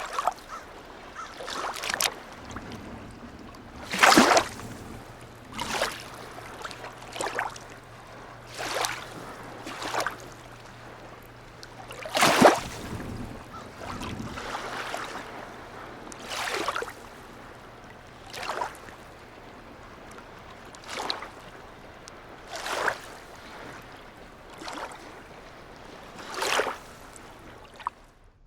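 Small waves lapping and slapping against a harbour quay, a splash every one and a half to two seconds, two of them louder about four and twelve seconds in, over a faint low steady hum.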